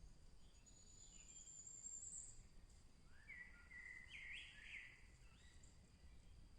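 Faint songbirds singing in a forest: a thin, high trill about a second in, then a short phrase of quick notes about three to five seconds in.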